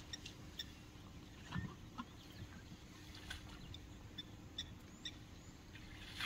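Scattered short bird chirps over a faint, steady low hum, with a couple of soft low thumps about one and a half to two seconds in.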